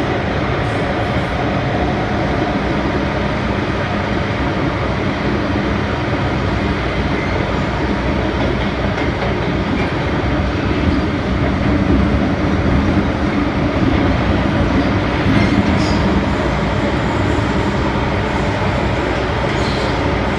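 MTR M-Train electric multiple unit running through a tunnel, heard from inside the car: a steady loud rumble of wheels on rail and motor hum, swelling a little partway through.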